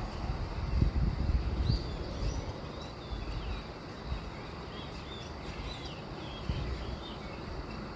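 Small birds chirping in many short, quick calls over a steady low rumble, which is loudest in the first two seconds.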